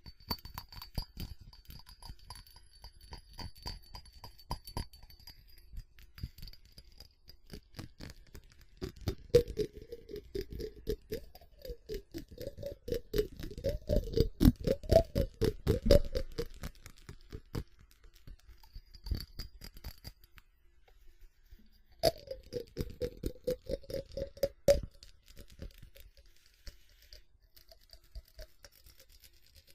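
Fast tapping on a ceramic object, a rapid run of clicks. About nine to sixteen seconds in, and again around twenty-two to twenty-five seconds, the tapping gets harder and louder and the ceramic rings with each hit.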